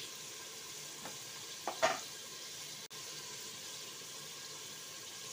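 Onion, tomato-ginger-garlic masala and whole spices with freshly added cumin seeds sizzling steadily in hot oil in a metal pot, with two short knocks a little under two seconds in.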